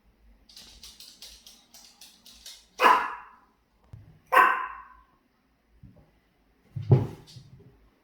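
Maltese dog barking, three loud separate barks a second or two apart, starting about three seconds in. Before the barks, a quick run of light clicks lasting about two seconds.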